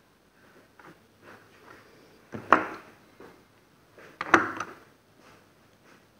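Small tools and parts being handled on a work surface: light scattered clicks and taps, with two louder knocks about two seconds apart.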